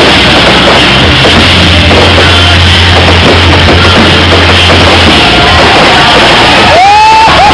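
Fireworks going off loud enough to overload the microphone: dense crackling and bangs throughout, with whistling rockets rising near the end.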